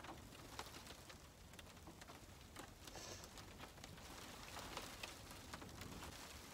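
Faint, irregular tapping of rain and hail on the truck's camper shell, heard from inside, over a low steady rumble of wind.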